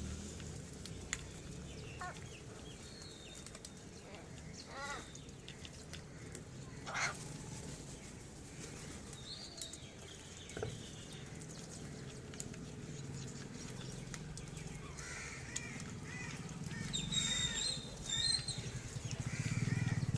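Birds giving short, scattered calls over a steady low rumble, with a cluster of higher chirping calls near the end.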